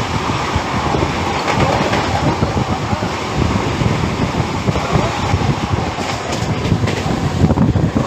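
Indian Railways express train running: a loud, steady rumble of the coaches with the wheels clattering over the rails.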